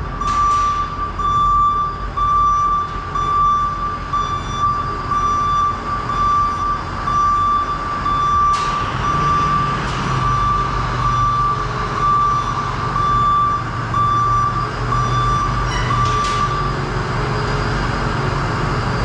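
A truck's reversing alarm beeping about once a second over the dump truck's VT365 V8 turbodiesel running. The beeping stops shortly before the end, and two sharp clicks sound along the way.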